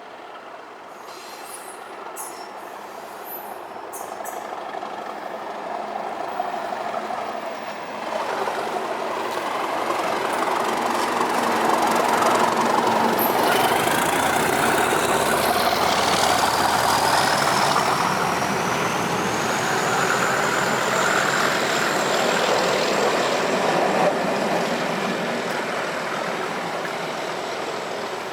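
A train passing close by. Its noise builds up over about ten seconds and holds, with a thin high whine that rises in pitch about halfway through and then holds steady. It fades slowly near the end.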